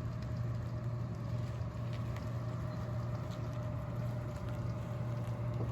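Tesla electric car creeping forward with no one inside, under remote Summon control: a steady low hum with a faint higher steady tone above it.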